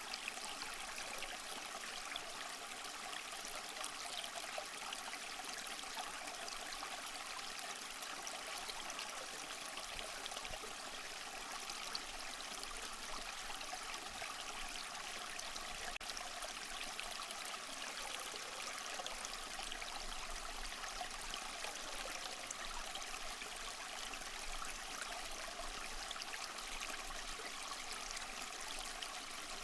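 Small mossy waterfall: water splashing and trickling steadily over rocks, an even hiss with many small splashes and no pauses.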